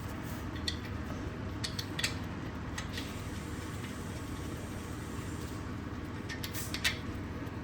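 A few light metallic clinks and taps, scattered and irregular, over a steady low background hum; the loudest clink is near the end.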